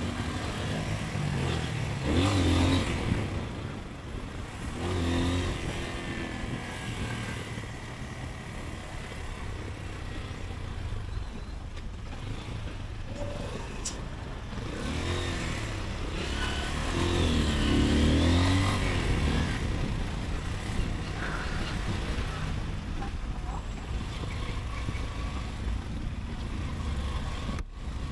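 Motorcycle engine accelerating and easing off in city traffic, its pitch rising and falling several times over a steady rumble of road and wind noise. The loudest surges come a couple of seconds in and again about two-thirds of the way through.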